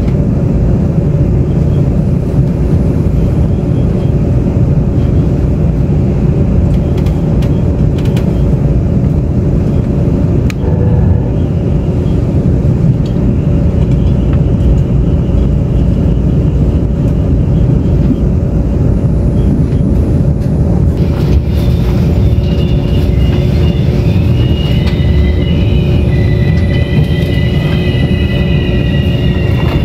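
Interior running noise of a Taiwan Railways Tze-Chiang express train: a steady, loud low rumble of wheels on track. About twenty seconds in, a high metallic squeal of several wavering tones joins it.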